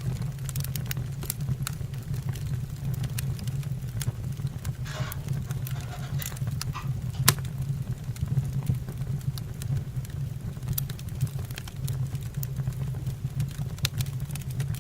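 Wood fire burning in a fireplace: irregular sharp crackles and pops over a steady low roar, with one louder pop about seven seconds in and a brief faint hiss around five seconds in.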